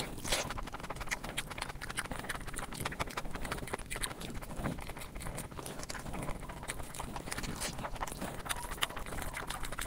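Close-miked ASMR eating: a person chewing and smacking on food, heard as a steady run of quick clicks with no talking.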